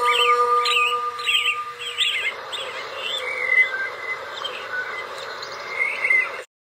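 Birds chirping in quick repeated calls, over a held musical note that fades out about two seconds in. The sound cuts off suddenly near the end.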